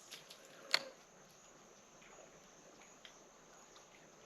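Quiet outdoor background with one sharp click about three-quarters of a second in, followed by a few faint ticks.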